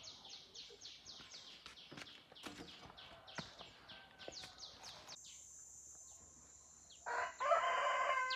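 A bird calling in a rapid series of short, high, falling chirps, about five a second, which stops suddenly about five seconds in. A steady high whine follows, and a louder sound with several steady pitches comes in near the end.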